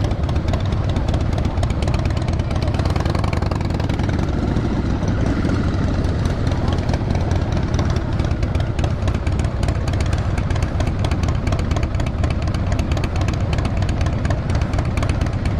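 Motorcycle engine running steadily at low revs, with an even, rapid pulse throughout.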